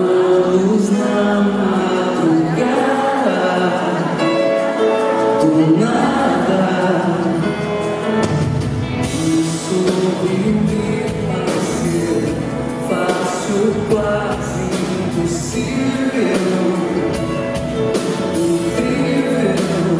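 Live band music with singing. Drums and fuller bass come in about eight seconds in.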